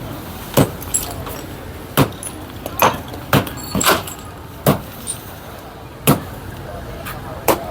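A run of sharp knocks and clanks at uneven intervals, about nine in all, over a low steady street background.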